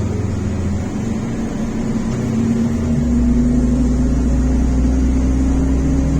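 MAZ-105 articulated city bus heard from inside the cabin while under way: its diesel engine runs with a steady hum and a whine that rises in pitch. The low engine note changes about three seconds in and grows louder as the bus pulls.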